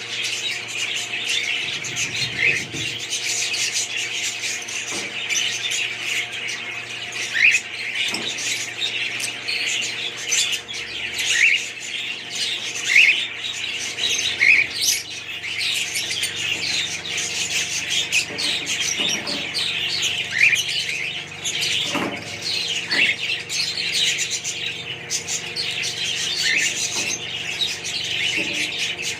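A flock of budgerigars chattering and warbling without a break, with short rising chirps every second or two.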